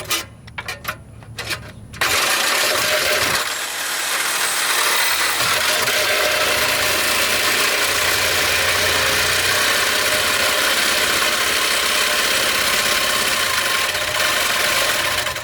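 A corded power cutting tool running and cutting through a Lexus GS430's steel exhaust pipe: a loud steady cutting noise that starts about two seconds in and stops right at the end, after a few clicks and knocks.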